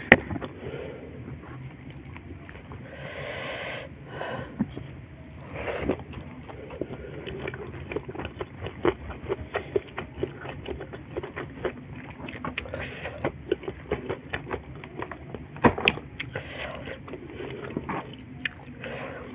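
Close-miked eating by hand: chewing a mouthful of rice and chilli prawns, with many small wet mouth clicks and crackles and fingers working the rice on the plate. A couple of sharper clicks stand out, one right at the start and one about sixteen seconds in.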